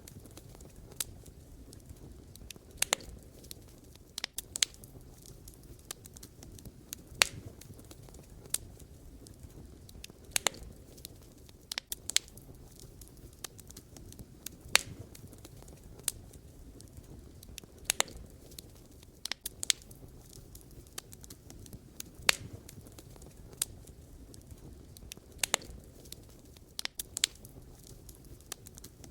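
Wood fire burning with a low steady rush and irregular sharp crackles and pops from the burning logs, a few every couple of seconds.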